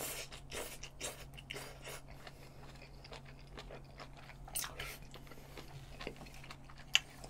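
Close-miked chewing of a mouthful of spicy stir-fried webfoot octopus with bean sprouts: the bite taken off a spoon at the start, then irregular wet smacks and crunching.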